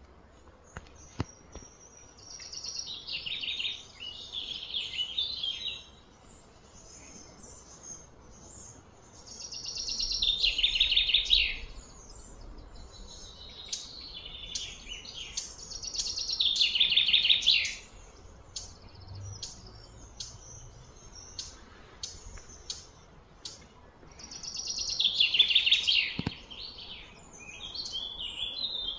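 A songbird singing several rapid trilled phrases a few seconds apart, each falling in pitch, with short scattered chirps in between.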